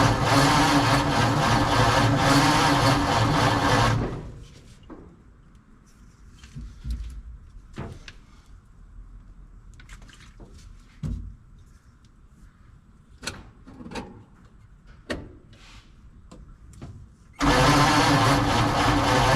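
The 1948 Ford F5 truck's engine being cranked by the starter without catching, for about four seconds. This is followed by a pause with scattered clicks and knocks, and the cranking starts again near the end.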